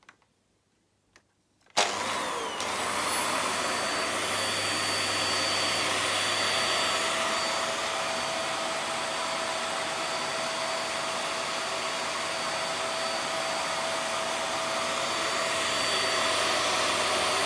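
VAX Air Stretch Pet Max upright vacuum cleaner switched on about two seconds in, its motor spinning up quickly and then running steadily with a constant whine over the rush of suction air. It is not that noisy.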